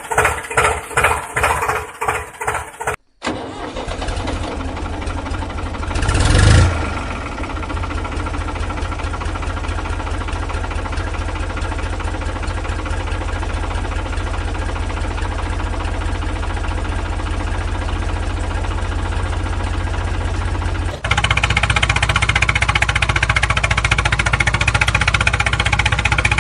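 Electronic music with a heavy beat, which breaks off after about three seconds. An engine then swells briefly, as if starting, and settles into a steady run, stepping up louder about twenty-one seconds in.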